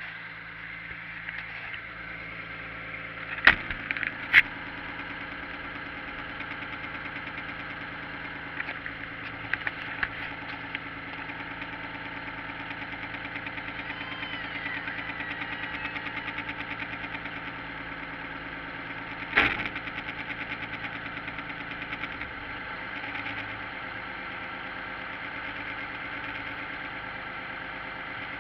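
The Crudebaker burnout car's engine idling steadily, with three sharp bangs: two close together a few seconds in and one more about two-thirds of the way through.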